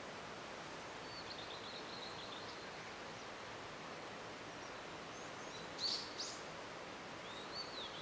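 Blue-and-white flycatcher singing faintly over a steady background hiss: a thin warbled phrase, then two sharp, louder notes about six seconds in and a short slurred whistle near the end.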